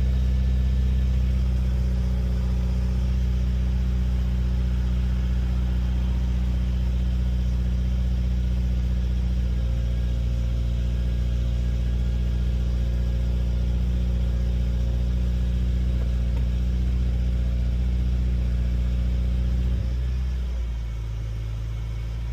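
2015 Subaru WRX's turbocharged 2.0-litre flat-four idling steadily on a cold start. About twenty seconds in the idle drops lower and the engine gets quieter, the raised cold-start idle settling down.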